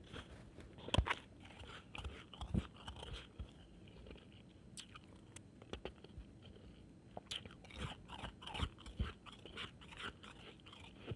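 Close-up crunching and chewing of shaved ice, bite after bite in irregular bursts, loudest about a second in and thickest in the last few seconds.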